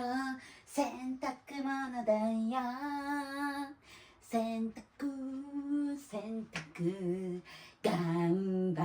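A woman's high voice singing a melody in short phrases, with held notes and brief pauses between them.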